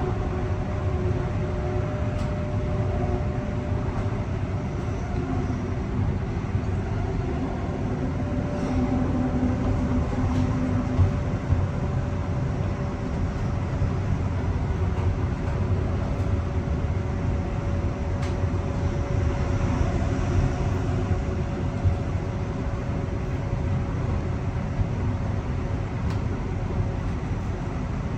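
Mariyung (D set) electric train in motion, heard from inside a carriage: a continuous rumble of wheels on track with a faint steady hum over it.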